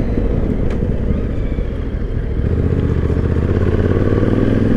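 Yamaha Ténéré 700's parallel-twin engine running as the bike rides along, its note growing a little louder and higher over the last second or two.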